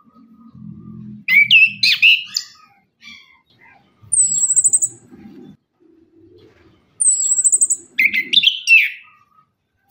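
Chestnut-capped thrush (anis kembang) singing. Two loud bursts of sweeping whistled notes come about a second in and again near the end, with short, thin, very high trills between them.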